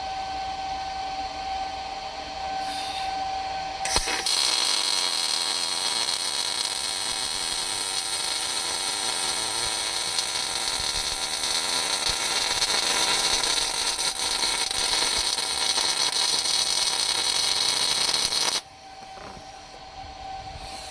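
Arc welding on a steel Jeep lower control arm: the arc strikes suddenly about four seconds in and runs as a loud, even sizzle for about fourteen seconds before cutting off sharply. Before it there is a quieter steady hum.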